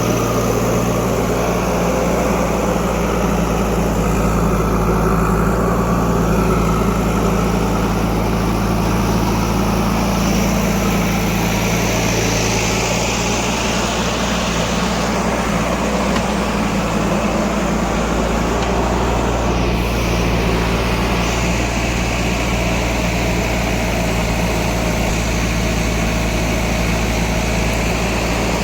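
Heavy diesel engine of earth-moving or farm machinery running steadily at an even pitch, with no clear revving.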